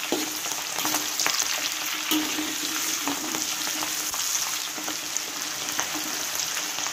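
Baby green beans frying in hot oil, a steady sizzle full of small crackles, while a spatula stirs and turns them in the pan.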